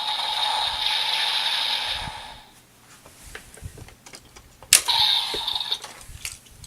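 Evolt Driver toy belt: its electronic sound ends about two seconds in, then plastic clicks and rattles as full bottles are handled and slotted in. A sharp snap near five seconds sets off a short electronic sound from the belt, followed by a few more clicks.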